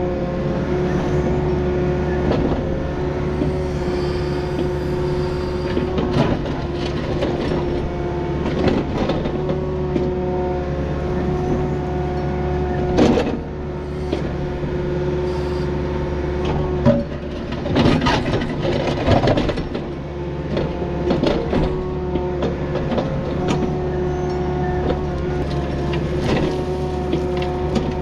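Takeuchi excavator running steadily as it digs a ditch, its engine and hydraulics giving a constant drone with a steady tone. Repeated clanks and knocks of the bucket and tracks break in throughout, loudest about halfway through and again a few seconds later.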